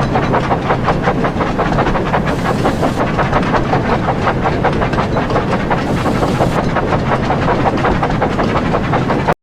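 Steam locomotives working along the line, their exhaust chuffing in a rapid, even beat. The sound cuts off abruptly near the end.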